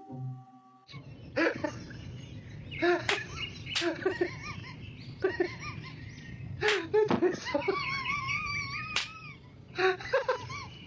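A parrot chattering and squawking in short bending calls, with a few sharp clicks and a wavy whistled call near the end, over a steady background hiss.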